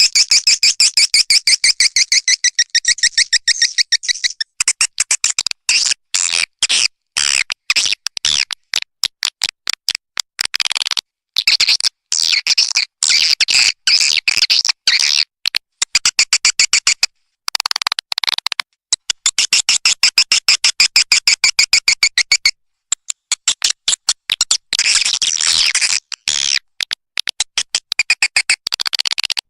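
Swiftlet lure call played for a swiftlet house: edible-nest swiftlet chirps in long, rapid trains of short, high-pitched clicking pulses, broken by a few brief pauses.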